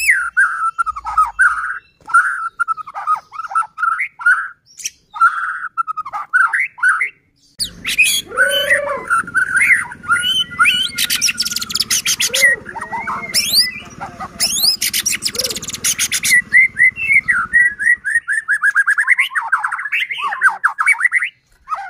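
White-rumped shama singing: clear whistled phrases that bend up and down, broken in the middle by two fast rattling bursts. This is the vigorous full song that keepers play to provoke other shamas into singing.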